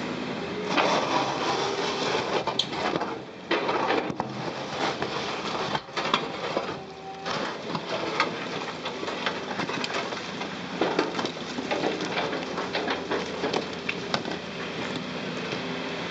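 Caterpillar 330C crawler excavator's engine running under load while chunks of broken concrete clatter and crunch as they are loaded into a dump truck body. Dense, irregular knocks and scrapes start about a second in, with a couple of brief lulls.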